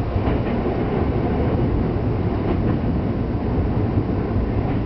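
Running noise of a Tokyu Toyoko Line train, heard from inside the train: a steady rumble of wheels on rail, with a few faint clicks.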